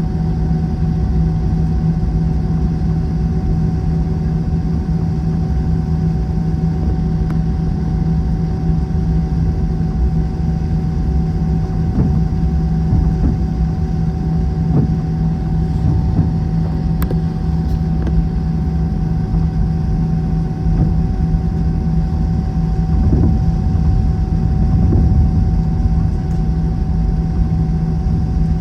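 Airbus A321 cabin noise: a steady jet engine and airflow drone with a low rumble and a constant hum, heard from inside the cabin.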